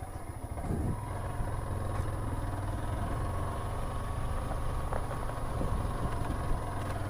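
Small motorcycle engine running steadily under load while climbing a steep hill.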